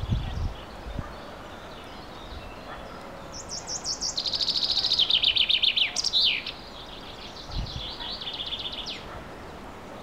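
Songbird singing: about three seconds in, a loud phrase opens with a fast high trill and falls into a run of rapid notes ending in a flourish. A second, quieter run of repeated notes follows, along with a few low thumps.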